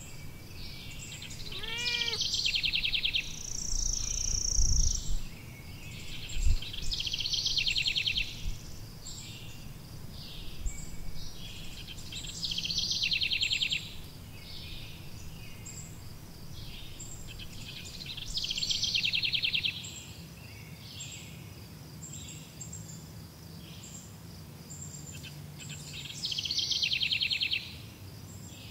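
Songbirds singing: one bird repeats a rapid, buzzy trill roughly every five to six seconds, with other small birds chirping in between. A couple of low thuds come around five to seven seconds in.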